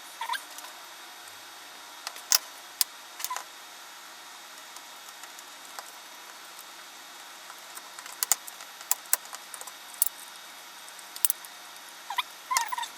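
Small plastic front-panel keys of an HP 3245A clicking, tapping and scraping as they are handled and fitted back into the panel. The clicks come one at a time early on and grow busier from about eight seconds in, with a few short squeaks of plastic rubbing.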